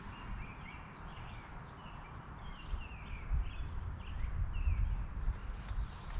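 Several birds chirping and singing, many short quick calls throughout, over a low, uneven rumble.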